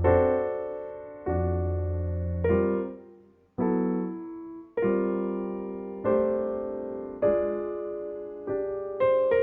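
Slow piano music: held chords struck about once a second, each ringing and fading before the next, with a brief near-silent pause partway through.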